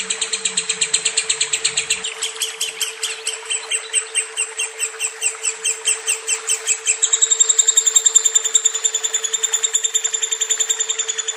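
Lovebird chattering in a long unbroken ngekek: fast, evenly repeated sharp chirps, about seven a second, shifting about seven seconds in to a higher, thinner trill. A steady low hum runs underneath.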